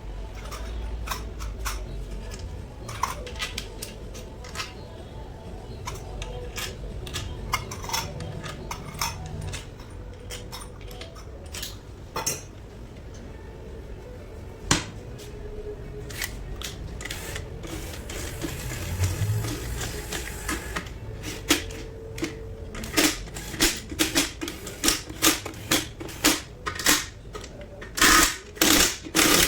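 Metal gearbox parts and hand tools clinking and knocking during a manual transaxle overhaul, with scattered sharp clicks. Later these give way to a regular run of sharp metallic taps, about two a second, that grows louder near the end.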